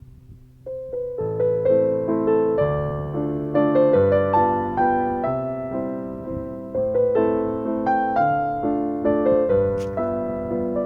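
Calm piano music: struck notes that ring and fade, a melody over low chords at a steady pace of about two notes a second, starting a little under a second in.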